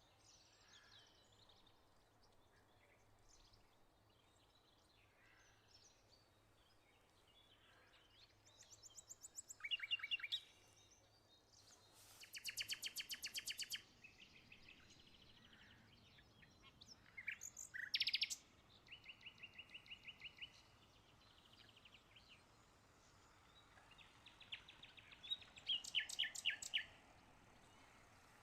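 Songbirds singing: several bursts of rapid, repeated high chirps and trills, with quieter gaps between them.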